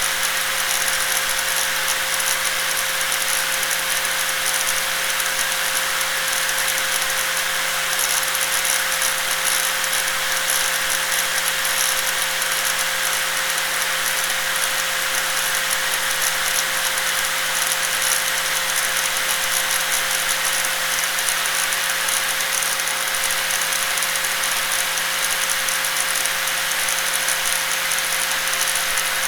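Angle grinder running continuously at a steady speed, with a constant whine that holds one pitch throughout.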